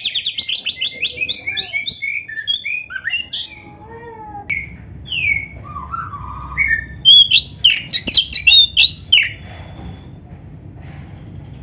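Oriental magpie-robin singing a varied song: a fast run of repeated notes at the start, then assorted whistles and slurred notes, and its loudest rapid burst of sharp notes from about seven to nine seconds in.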